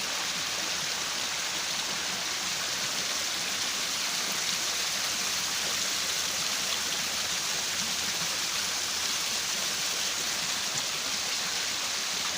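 Steady splashing of water falling in an ornamental garden waterfall, an even hiss with no breaks.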